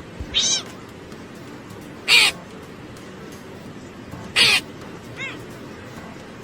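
An animal's short calls, repeated about every two seconds: three loud ones, then a fainter fourth.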